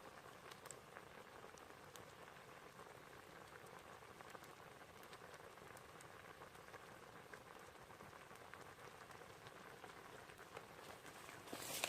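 Faint, steady bubbling hiss with fine crackles from a pot of water boiling over a wood fire. Right at the end a louder rustling starts.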